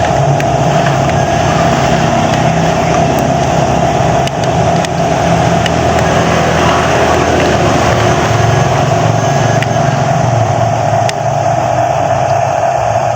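Electric motor of a radio-controlled model construction machine running with a steady whine.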